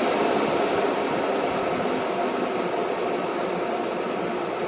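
Outdoor condenser fan of a DC parking air conditioner running as a steady hum, slowly getting quieter as its speed is turned down by an app-controlled noise-reduction module.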